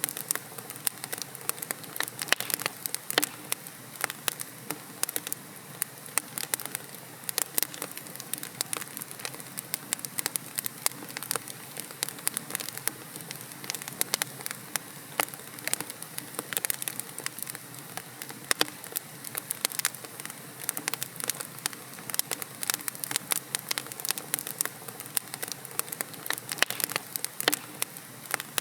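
Wood logs burning in a fireplace, crackling with frequent irregular sharp pops and snaps over a steady soft hiss.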